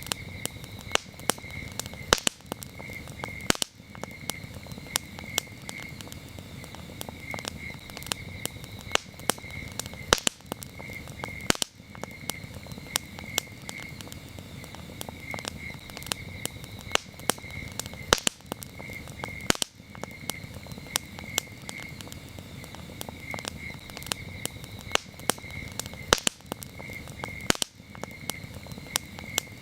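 Wood campfire crackling, with sharp pops every second or so and a few louder snaps, over a low steady rush of the flames. Crickets chirp in the background in short repeated pulses.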